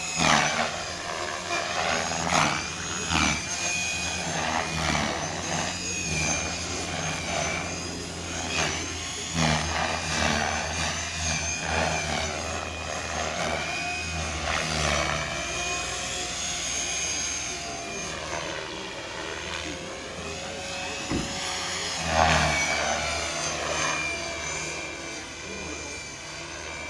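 Gaui Hurricane 425 electric radio-controlled helicopter in flight: its motor and rotor whine rises and falls in pitch as it manoeuvres, with several louder swells as it passes close.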